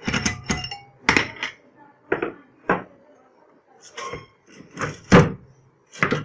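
Metal motorcycle engine parts knocking and clinking as they are handled and fitted, about a dozen sharp irregular knocks, some with a short metallic ring.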